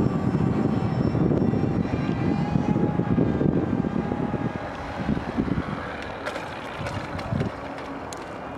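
Electric motor and propeller of a radio-controlled seaplane whining as it flies, the pitch shifting up and down. Heavy wind buffets the microphone through the first half, then eases.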